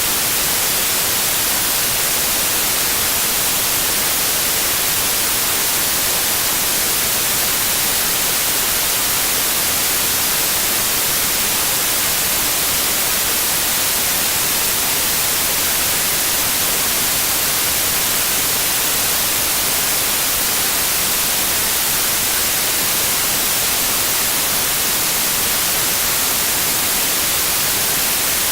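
Steady synthesized white noise: an even, unchanging hiss, brightest in the high frequencies.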